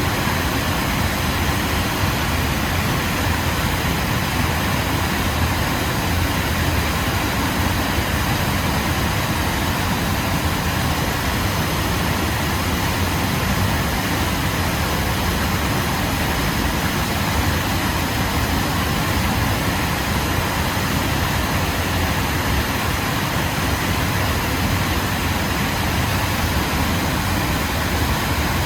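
Waterfall: a steady, unchanging rush of falling water, heavy and deep in the low end.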